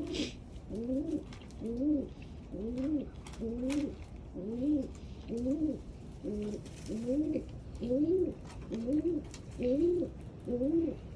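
Domestic pigeon cooing over and over in a steady rhythm, each coo a short rise and fall in pitch, about one every three-quarters of a second.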